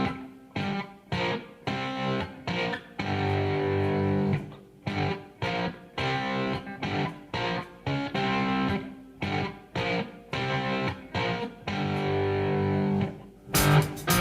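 Guitar playing chords in a choppy rhythm, short strums broken by brief gaps; near the end a louder, fuller strumming comes in.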